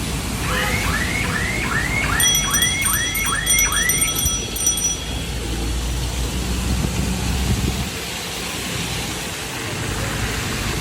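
Road traffic rumbling past, with a vehicle's electronic alarm sounding a quick run of about nine rising chirps, a little over two a second, over the first four seconds. Over the middle of that run a high, flickering electronic tone rings for about three seconds.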